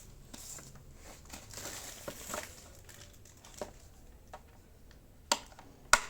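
Faint rustling and handling noise, then a few sharp clicks, the loudest two near the end.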